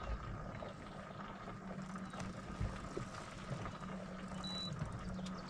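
Boat motor running steadily at low speed, a constant hum over low rumble, with a couple of low thumps.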